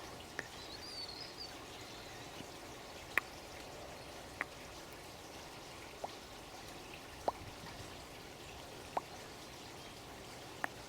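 Water drops falling singly into water, seven clear plinks spaced one to two seconds apart, over a steady trickle of running water. A short high bird chirp about a second in.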